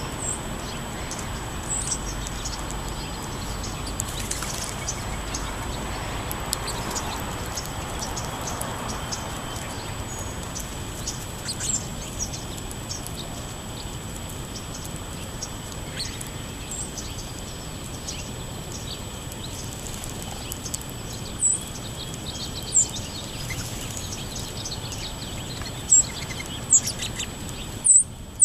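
Songbirds chirping in short, high calls scattered over steady background noise, with several louder chirps near the end.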